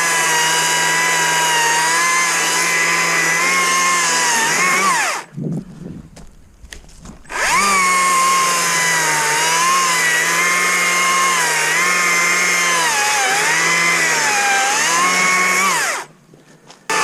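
Stihl MSA 60 C cordless battery chainsaw running at full speed in two long runs, about five and about nine seconds, with a short stop between. Its steady whine dips in pitch several times as the chain bites into the wood under load.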